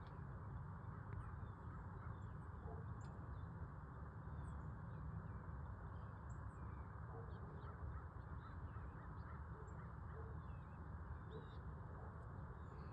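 Scattered short, high bird chirps over a steady low background hiss and rumble.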